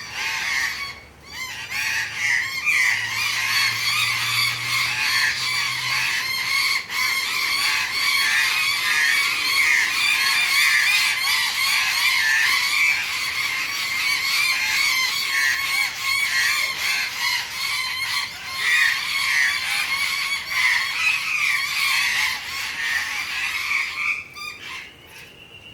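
A group of birds giving harsh, continuous alarm calls in a dense chorus, mobbing a black-headed python. The calling dies down near the end.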